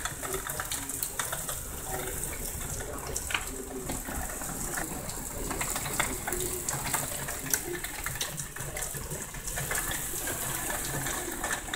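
Heavy downpour of rain: a steady hiss with many sharp little hits of drops striking close by.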